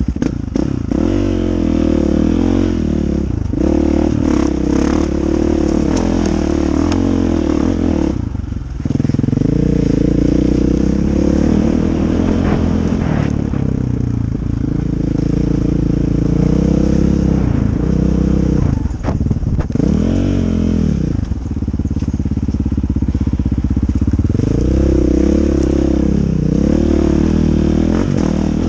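Dirt bike engine being ridden hard, its revs rising and falling again and again as the throttle is rolled on and off, with brief drops near a third of the way in and again about three-quarters through. A few sharp knocks and clatters are heard over it.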